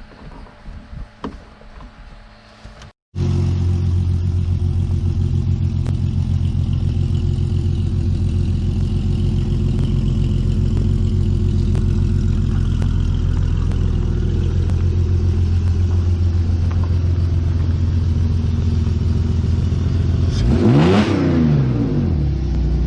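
The BMW 325xi's engine running at a steady idle, starting abruptly about three seconds in after a few faint clicks. Near the end it is revved once, rising and falling back.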